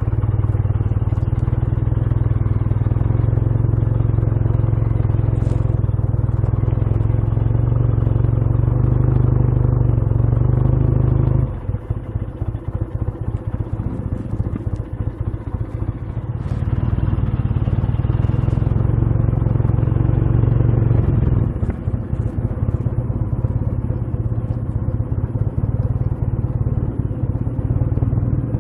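Motorcycle engine idling with a steady low hum. About eleven seconds in it drops quieter and rougher, then picks up again a few seconds later.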